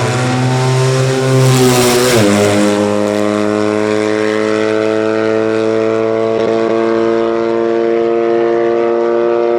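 Car engine passing close: its note drops sharply as it goes by about two seconds in, with a rush of noise, then holds a steady pitch as it pulls away.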